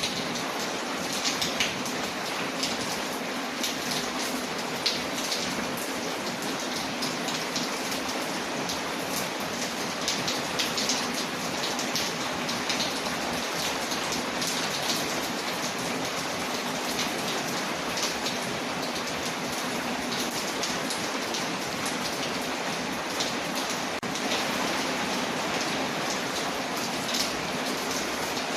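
Steady rain layered with a crackling wood fire, with many small sharp pops and ticks over an even hiss. The rain grows a little louder about three-quarters of the way through.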